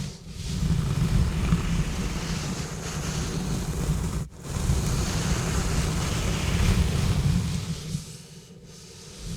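Exfoliating gloves rubbing and scratching directly on a bare microphone: a dense, deep scrubbing noise with a scratchy hiss on top. It breaks off briefly about four seconds in and eases to a quieter stretch near the end.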